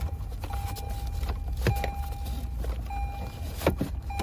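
A car's electronic warning chime beeping steadily, about one beep every second or so, over a low steady hum. Sharp plastic knocks and clicks come in between, two of them louder, as a module is pushed into the cavity behind the dashboard radio.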